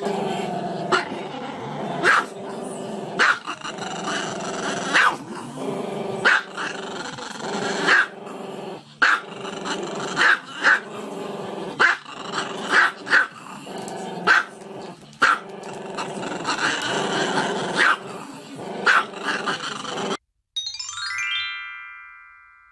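A small black-and-tan dog howling with its head raised, broken by sharp yips about once a second. Near the end the dog stops and a short electronic jingle of stepped tones plays and fades.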